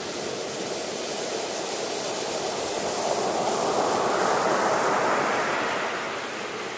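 Ocean waves washing onto a shore: a steady hiss of surf that swells into one breaking wave, loudest about four to five seconds in, then draws back.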